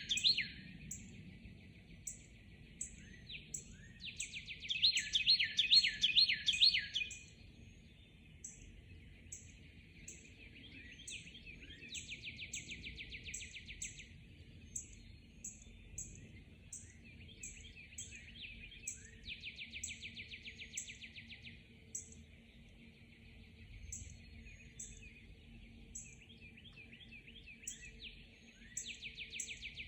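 Dawn chorus of songbirds: a loud song of quick repeated notes in the first several seconds, then shorter fast trills every several seconds, with a steady series of short, high chips from another bird throughout.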